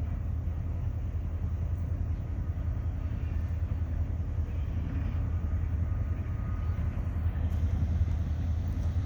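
Low, steady rumble of an approaching EMD GP35-type diesel locomotive, growing a little louder near the end.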